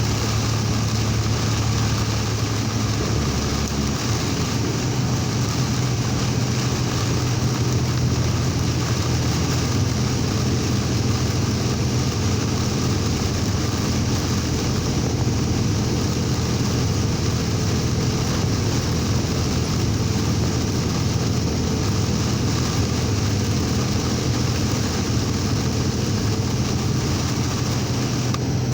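A vehicle driving through heavy rain: a steady low engine hum under a constant hiss of rain, road spray and wind.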